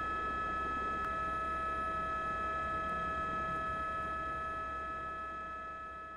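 A steady high-pitched tone with overtones over a low hum, with a lower tone joining about a second in; the whole sound fades out near the end.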